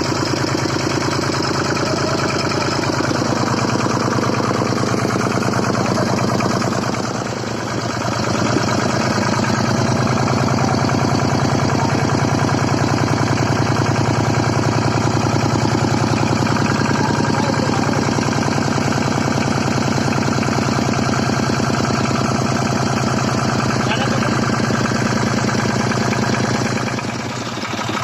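Malticar M22 two-cylinder V-type 800 cc diesel engine running steadily. Its sound changes about seven seconds in with a brief dip, then settles into a fuller, even run, and dips again near the end.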